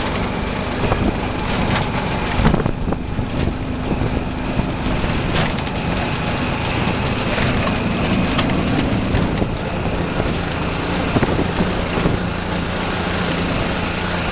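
Jeep driving, its engine running under steady road noise with scattered knocks and rattles; the engine note drops about two-thirds of the way through.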